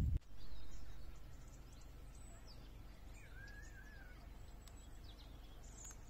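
Faint bird chirps and calls over a steady low rumble, with one longer wavering call a little past halfway.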